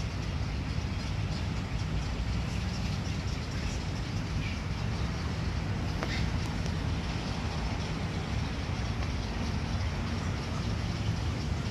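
Steady outdoor background rumble and hiss with no clear single source, with a few faint short chirps.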